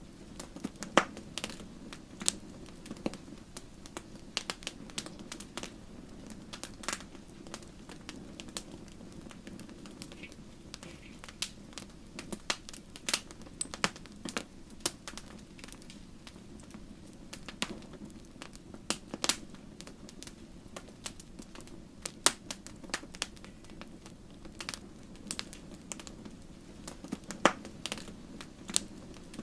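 Wood fire burning in a fireplace, crackling with irregular sharp pops and snaps from the burning logs over a steady low rush of flame.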